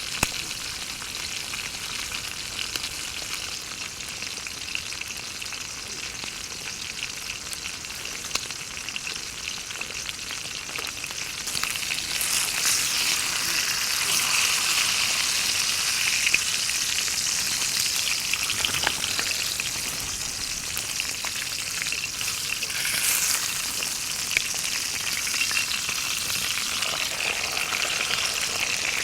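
Wagyu beef steak sizzling and spitting in a hot pan over a campfire, growing louder about twelve seconds in.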